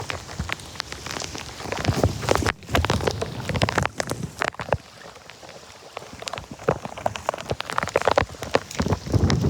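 Storm rain falling, with irregular clusters of splashing in shallow floodwater.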